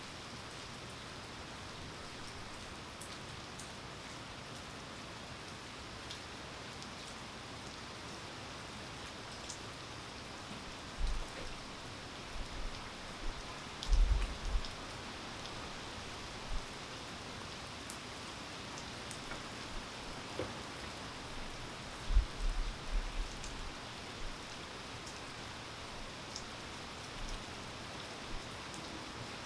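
Steady rain falling, with scattered individual drops ticking close by. A few brief low thumps stand out, about a third of the way in, around the middle and again about three-quarters through.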